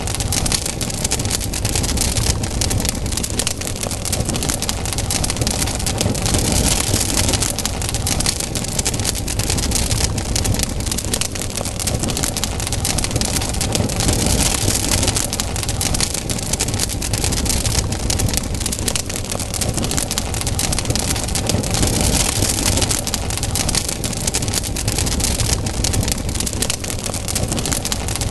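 Wood campfire burning: a steady rush of flame with dense, constant crackling and popping of the burning wood.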